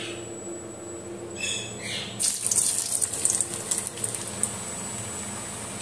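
Chunks of raw papaya frying in hot oil in a wok: a loud, crackling sizzle starts about two seconds in as the pieces go into the oil, then keeps on steadily.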